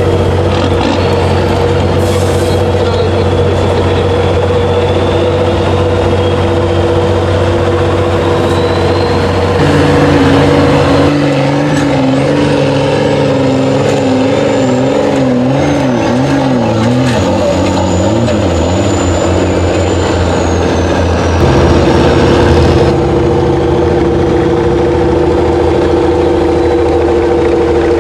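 Iveco trial truck's diesel engine running loud and steady, then its pitch wavering up and down with the throttle for about ten seconds from around ten seconds in, before settling back to a steady note. A thin high whine rises and falls above it.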